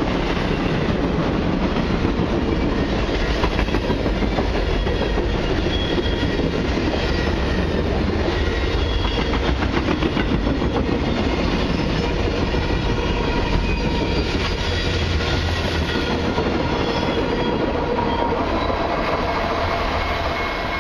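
Cars of a long mixed freight train rolling steadily past, their steel wheels clacking over the rail joints in a fast, continuous run.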